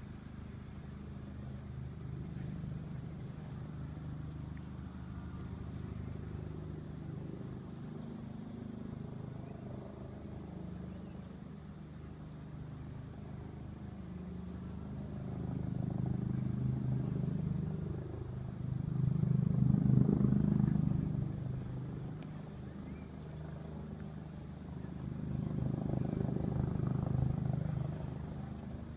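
Agusta Bell AB 412 helicopter flying over, its four-bladed main rotor and turbine engines a low, pulsing beat. The sound grows louder about two-thirds of the way through, is loudest at its nearest pass, then fades and swells again near the end.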